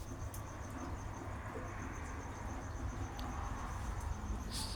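Crickets chirping in a fast, even, high-pitched pulsing trill, over a steady low rumble.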